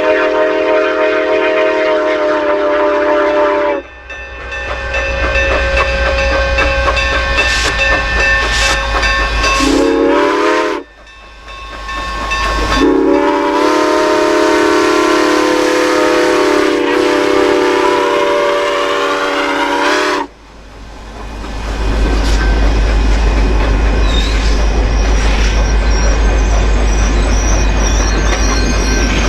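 Whistle of 2-8-2 steam locomotive No. 105 blowing a multi-note chord: a long blast that cuts off about four seconds in, a short blast near ten seconds, then a long one of about seven seconds. Between and after the blasts the locomotive runs with a steady low rumble.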